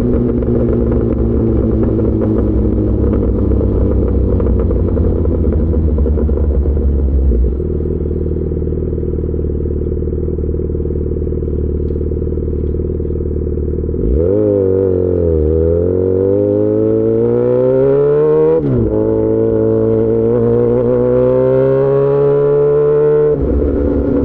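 Yamaha XJ6 S inline-four motorcycle through an SC-Project aftermarket exhaust, running steadily at low revs for about fourteen seconds. It then accelerates hard, the revs climbing through two quick upshifts, before the throttle is closed near the end.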